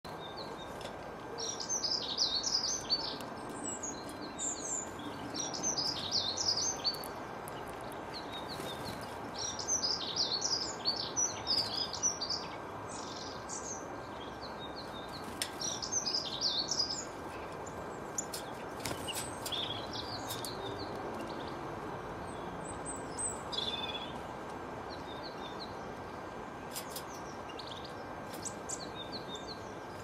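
Songbird-like chirping: bouts of quick, high chirps a few seconds long with short pauses between them, growing sparse in the last third, over a steady background hiss.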